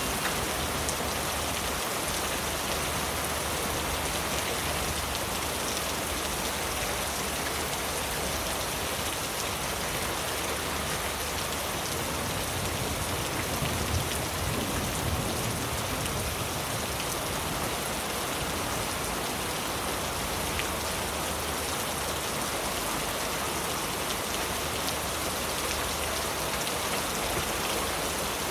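Heavy rain falling steadily on leaves: a dense, even patter of drops with no break.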